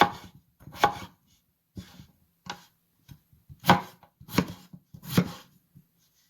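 Knife dicing a raw potato on a cutting board: about eight separate chopping strokes at an uneven pace, roughly one every three-quarters of a second.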